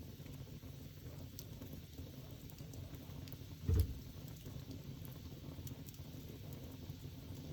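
Wood fire burning with a steady low rumble and a few faint sparse crackles and pops. A single dull thump a little past halfway.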